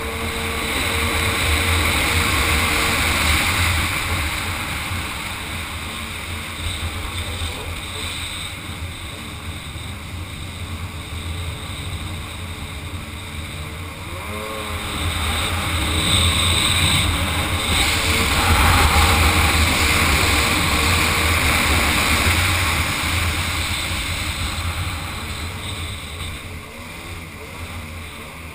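Kawasaki 800 SX-R stand-up jet ski's two-stroke twin engine running hard, with rushing water spray and wind on the microphone. It swells louder twice, in the first few seconds and again a little past halfway.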